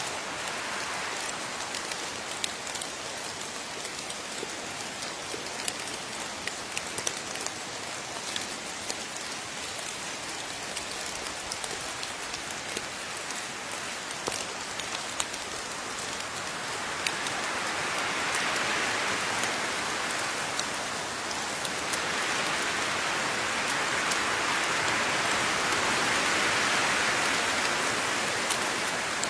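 Steady rainfall with many separate drops ticking, the hiss swelling louder in two waves about two-thirds of the way through.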